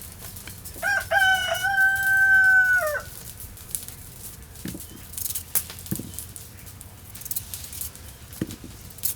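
A rooster crows once about a second in: one long cock-a-doodle-doo of about two seconds, held steady and dropping in pitch at the end. Faint scattered clicks and knocks follow.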